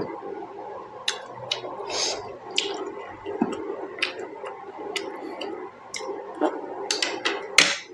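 Close-up wet chewing and lip-smacking while eating juicy pork momo dumplings: a run of short clicks and moist smacks, with a louder, wetter smack about two seconds in and the loudest one near the end.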